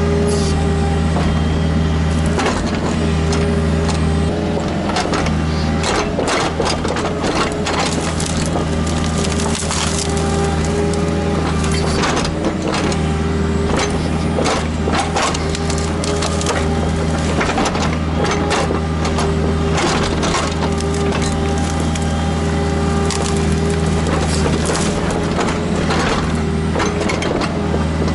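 Kubota KX121-3 mini excavator's diesel engine running steadily while wood cracks and crunches, with frequent sharp snaps and knocks.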